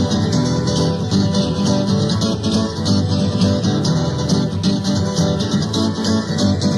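Live acoustic band music: several acoustic guitars strumming and picking a fast, busy instrumental passage, with a rattling percussion like a shaker in the mix.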